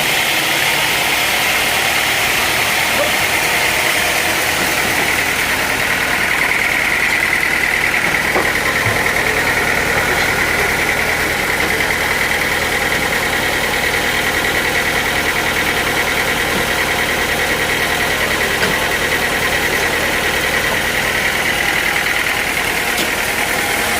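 Sawmill machinery running steadily, with a continuous high whine whose pitch sags a little and then holds.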